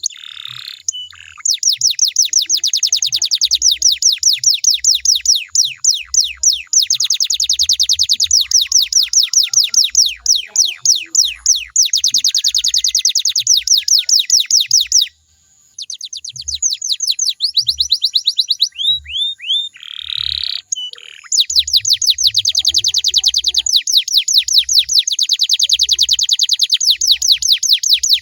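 Canary singing long rolling trills of fast, evenly repeated descending notes, about ten a second. The song pauses briefly about halfway. A little later it breaks into a few slower sweeping notes, then the rolls start again.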